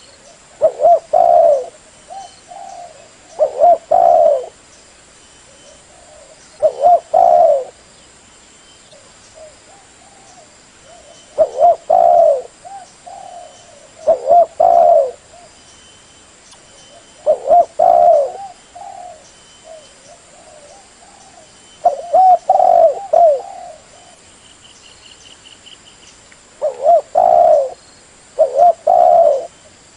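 Spotted dove (terkukur) cooing repeatedly: a short phrase of several low coos every three to four seconds, the kind of call played as a lure to attract the birds.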